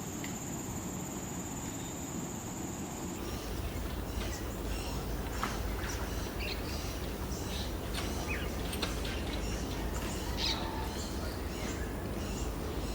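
Rainforest birds chirping and calling, many short scattered notes, over a low rumble. A steady high-pitched whine stops about three seconds in.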